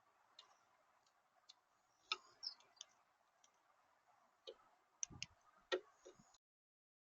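Faint, irregular ticks and clicks from birds at a feeder, over a quiet hiss. The sound cuts off to silence about six seconds in.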